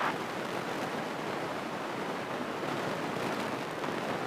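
Steady cabin noise of a small single-engine airplane rolling out on the runway after landing, an even rushing hiss with no distinct engine tone.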